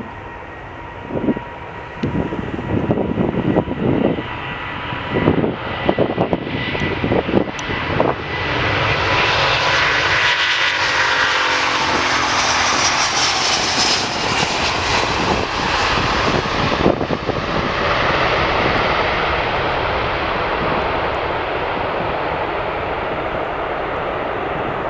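Jet airliner's engines passing the runway, swelling to a loud peak about halfway through and slowly fading away. In the first several seconds, gusts of wind buffet the microphone.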